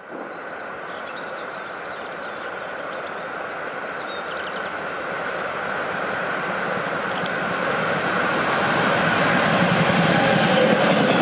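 DB Class 145 electric locomotive hauling a train of car-transporter wagons approaching on the line, its running noise growing steadily louder as it closes in.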